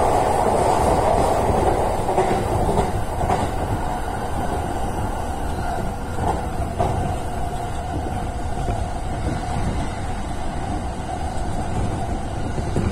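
Running noise of a JR East Utsunomiya Line electric commuter train heard from inside the carriage: a steady rumble of wheels on rail, with a few faint clicks over rail joints.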